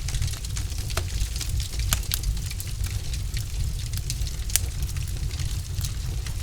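Wood fire burning in a fireplace: a steady low rumble and hiss of the flames with irregular sharp crackles and pops from the logs, a few louder pops about a second in, two seconds in and past the middle.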